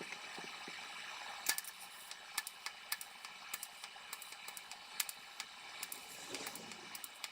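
TIG welding arc laying silicon bronze filler rod onto a steel tailpipe to build up and fill a large void: a steady hiss broken by irregular small crackles and clicks.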